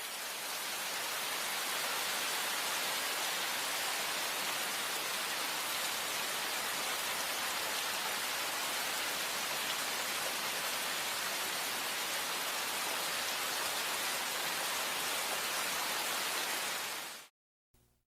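Steady rain falling, an even hiss that starts abruptly and fades out near the end.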